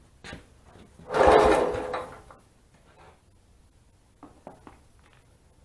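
Single pull on the recoil starter cord of a log splitter's small gas engine: a rasping whirr about a second long, and the engine does not catch. A few light clicks follow.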